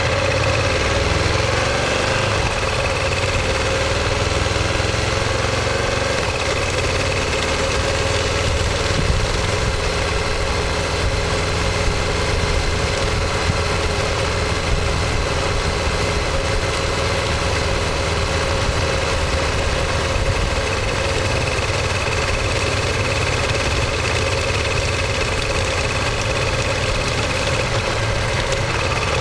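Ducati Monster 1200S's L-twin engine and exhaust running at steady, unchanging revs, heard close up from a bike-mounted microphone.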